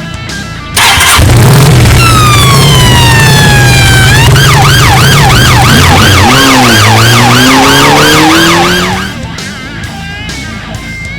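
Police siren sound effect over a running engine. It starts suddenly about a second in, gives one long falling wail, then switches to a fast up-and-down yelp about three times a second, and stops about nine seconds in.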